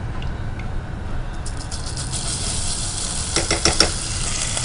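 Mutton haleem paste being spooned into hot ghee with whole spices in a pan: a frying sizzle that builds from about two seconds in over a low steady hum. Near the middle, a quick run of sharp clicks from the spoon knocking against the metal.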